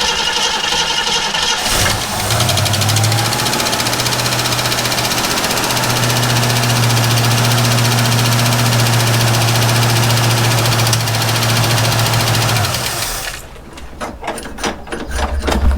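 1967 Ford Mustang V8 starting up on its freshly rebuilt Autolite 4100 four-barrel carburetor. It catches within about two seconds and settles into a steady idle, then is shut off after about thirteen seconds. It starts up nice.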